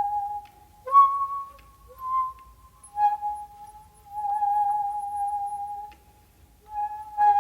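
Solo shakuhachi (Japanese end-blown bamboo flute) playing slow held notes with short silences between phrases. About a second in, a sharp attack jumps to a higher note before the line settles back down.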